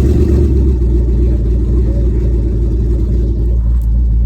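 Twin-turbo Ford Mustang's Coyote 5.0 V8 running steadily with a deep, even exhaust note, neither revving up nor cutting out.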